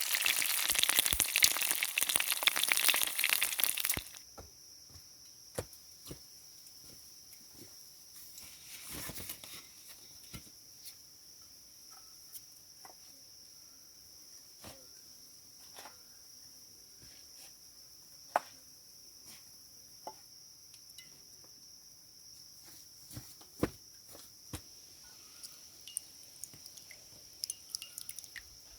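Loud frying sizzle with crackles for about four seconds, cutting off abruptly. Then a quiet stretch with a steady high insect chirring and scattered small clicks and knocks.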